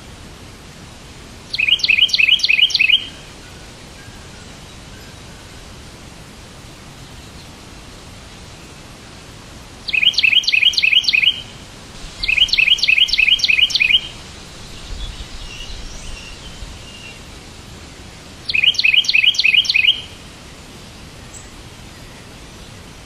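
A songbird calling in four short bouts of rapid, evenly repeated chirps, with fainter twittering between two of them, over a steady background hiss.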